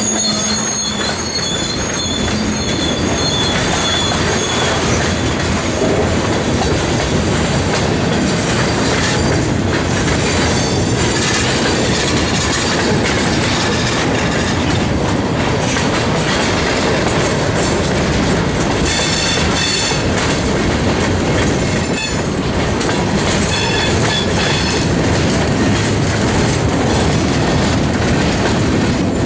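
Freight train cars rolling past with steady wheel and rail noise and clickety-clack over the rail joints. Wheels squeal at a high pitch in the first few seconds, and again briefly about two-thirds of the way through.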